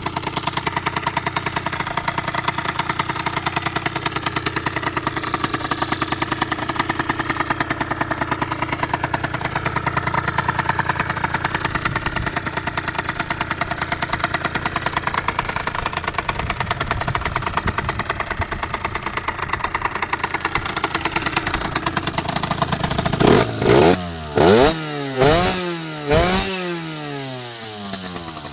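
Beta RR 50 two-stroke engine, bored to 70cc and fitted with a Giannelli exhaust, idling steadily with a fast even beat. About 23 seconds in it is blipped sharply four times in quick succession, each rev rising and falling, then it drops back to idle.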